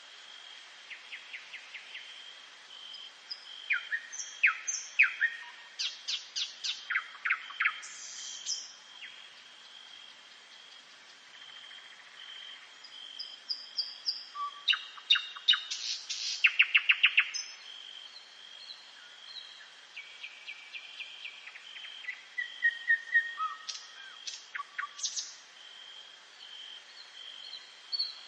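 Several songbirds singing in a dawn chorus: bursts of quick repeated chirps and short trills, loudest around 4 to 8 seconds in, around 15 to 17 seconds in and around 23 to 25 seconds in, over a steady high pulsing trill in the background.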